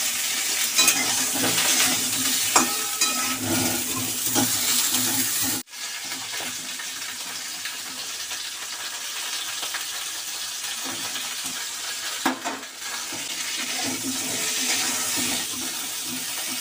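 Cauliflower florets frying in oil in a steel wok: a steady sizzle, with the clicks and scrapes of a metal spatula stirring them. The sound cuts out for an instant about six seconds in, then the sizzle carries on a little quieter.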